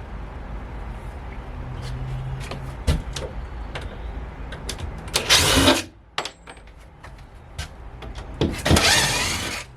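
Demolition noises from pulling apart a scrap-wood structure: a few sharp knocks over a low steady rumble, then two loud scraping rushes, a short one about five seconds in and a longer one near the end.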